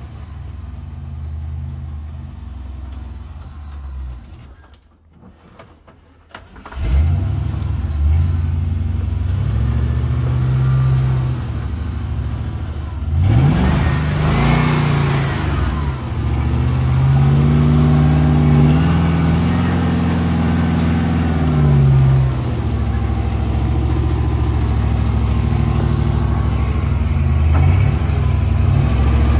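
Off-road truck engine revving hard in repeated rising and falling pulls on a trail climb. It drops to a low level about four seconds in and comes back loud about seven seconds in.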